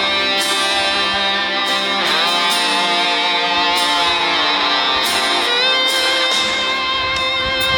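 Guitar-led music with no singing: an electric guitar playing sustained, bending lead notes over a strummed backing.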